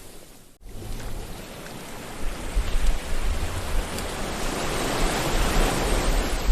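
Sea waves breaking and washing on a shore, a steady rush of surf. The sound drops almost away for about half a second near the start, then swells back up.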